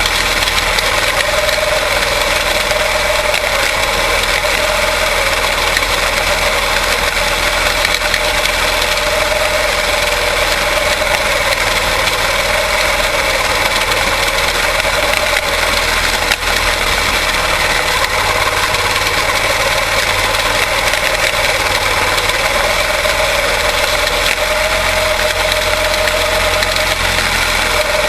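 Quarter midget race engine, a Briggs & Stratton Animal single-cylinder, running steadily under race conditions, its pitch rising and falling slightly.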